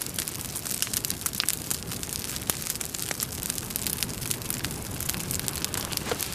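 Burning kindling under a log campfire, crackling steadily with many small irregular pops and snaps.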